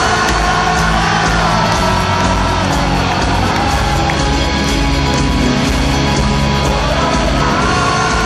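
Rock band playing live and loud, with a sung vocal line heard near the start and again near the end.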